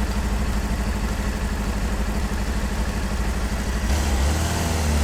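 Motorcycle engine running at low revs, a steady low rumble; about four seconds in a deeper, louder engine note comes in.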